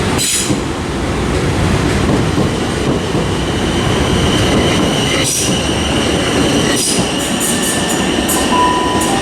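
Passenger train moving along the platform: continuous rail rumble, with a steady high whine from a few seconds in and several short, high wheel squeals in the second half.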